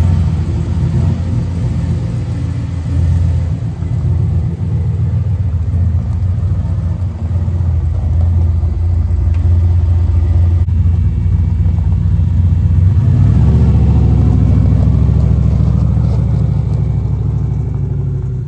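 Car engine and road noise heard from inside a moving vehicle: a steady low rumble whose engine note shifts about 13 seconds in.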